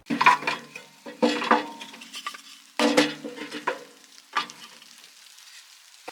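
A metal utensil scraping and stirring in a metal pan in four separate strokes, each with a brief ringing of the metal.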